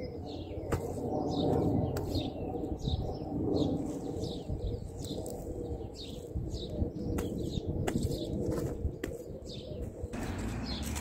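Birds singing: a rapid run of short, high chirps repeating throughout, over a steady low background rumble, with a few sharp clicks.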